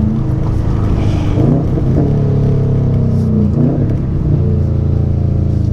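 2019 Subaru WRX STi's turbocharged flat-four through a Remark cat-back exhaust with the mufflers deleted, rumbling under hard acceleration; the engine note shifts in pitch twice, about a second and a half and three and a half seconds in.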